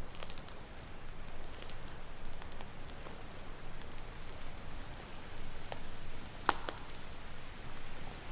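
Campfire crackling, with scattered sharp pops, the loudest about six and a half seconds in, over a steady wash of ocean waves.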